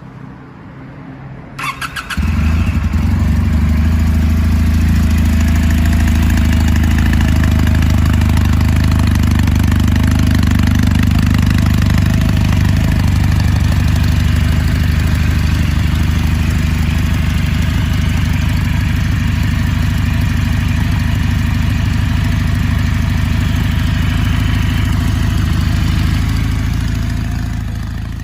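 Kawasaki Meguro K3's air-cooled parallel-twin engine being started: a brief crank about a second and a half in, then it catches and idles steadily, loud and even.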